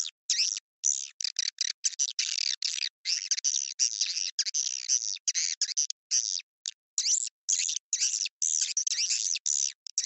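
Swiftlet call lure recording: dense, high twittering chirps of edible-nest swiftlets, cut into short bursts about three a second with abrupt silent gaps between them. It is a call sound played to draw swiftlets into a nesting house.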